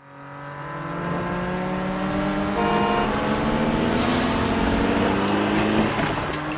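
Cartoon car engine sound effect revving up, its pitch rising steadily over about six seconds. A brief hiss comes about four seconds in.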